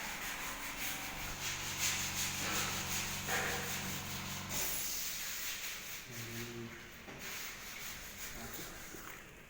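Sanding: repeated rubbing strokes of abrasive on a surface being prepared for Duco paint, over a steady motor hum that stops about halfway through.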